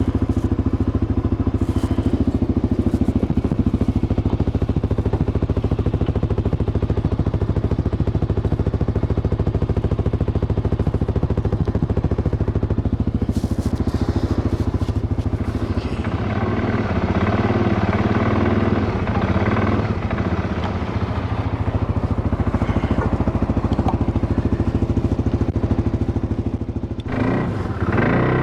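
ATV engine running steadily, then working more unevenly with wavering pitch about halfway through as it is driven, with a short noisy burst near the end.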